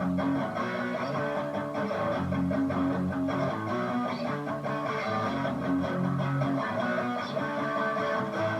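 Electric guitar, a Stratocaster copy, played through a distortion pedal and a mini amp head into a small cab: a continuous run of chords and notes.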